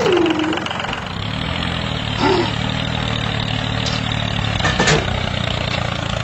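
Tractor engine running steadily with a low, even hum that sets in about a second in, after a short falling tone at the start. Two short clicks come about two and five seconds in.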